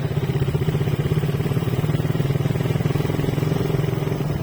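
Motorcycle engine running at a steady pitch while riding, with a fast even firing pulse.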